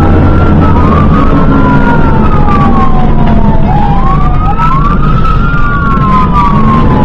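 Fire engine siren wailing in long sweeps, each rising quickly and falling slowly, with two siren tones overlapping, over the steady drone of the truck's engine.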